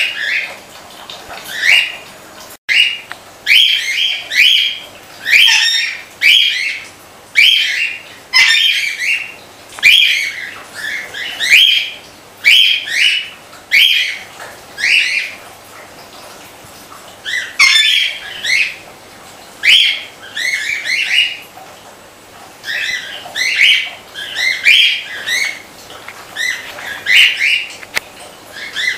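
Aviary birds calling over and over in short loud squawks, about one or two a second with a couple of brief pauses, over the faint steady hum of a running water pump.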